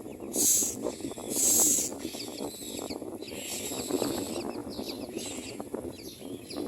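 Common myna nestlings begging for food: two harsh hissing screeches in the first two seconds, then a run of rapid, thin chirps over rustling in the nest.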